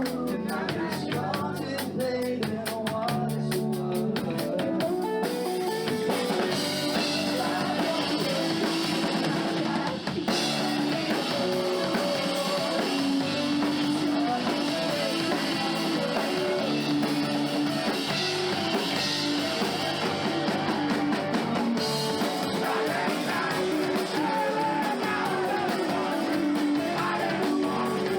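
Live rock band playing a song with drum kit and electric guitar, the drums keeping a fast, even beat on the cymbals for the first few seconds.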